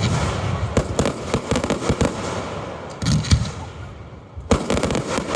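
Aerial fireworks heard close to the launch site: a rapid run of sharp bangs and crackling, easing off briefly before a fresh volley starts abruptly near the end.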